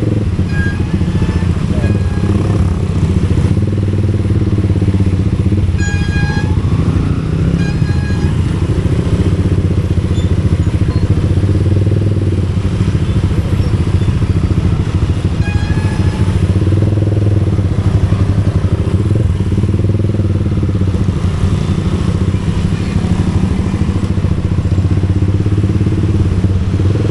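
Motorcycle engine running steadily while riding, a constant low hum. A few short high-pitched beeps sound about six, eight and sixteen seconds in.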